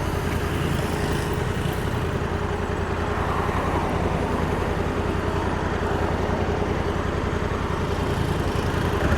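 Honda CRF1100 Africa Twin's parallel-twin engine idling steadily.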